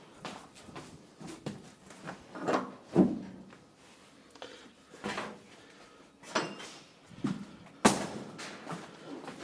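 A series of irregular knocks and bangs, some with a short ring after them. The sharpest comes about three seconds in and another near the end.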